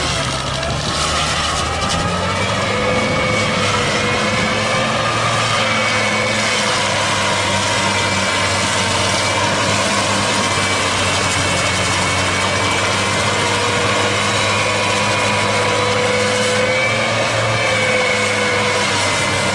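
Heavy farm machine's diesel engine running steadily, with a slight waver in its whine.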